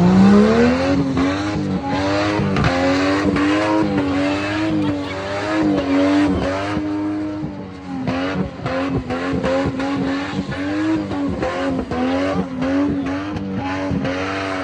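Car engine held at high revs with tyres squealing as the car spins its wheels. The engine pitch wavers up and down about once a second, and the sound starts abruptly.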